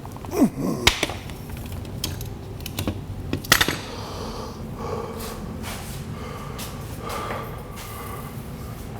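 A few sharp metallic clicks and knocks of hand tools being worked on a Jeep's rear leaf-spring shackles, over a steady low background hum.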